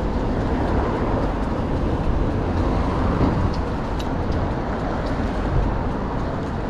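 Steady city street and traffic noise heard while cycling, a continuous low rumble with no distinct events standing out.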